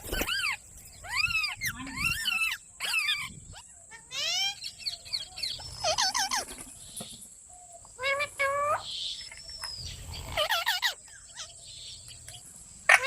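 Parrot squawking and chattering in a series of short, shrill calls with arching pitch, bunched into bursts separated by brief pauses.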